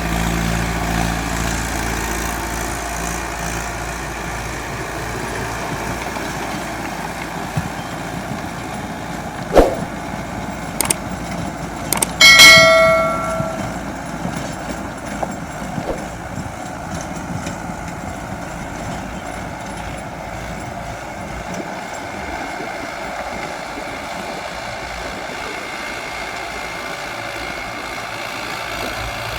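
Mahindra Arjun 605 DI tractor running with a Shaktiman rotavator, its engine note strongest in the first couple of seconds and then fainter under a steady noise. A sharp knock comes near ten seconds in, and a loud, ringing metallic clang about two seconds later.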